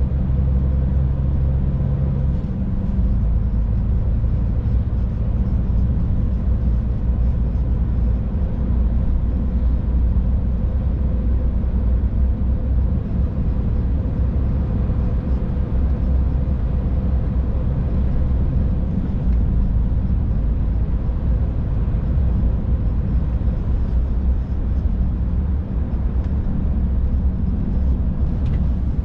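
Scania truck driving at a steady pace, heard from inside the cab: an even low engine and road rumble with a faint steady hum above it.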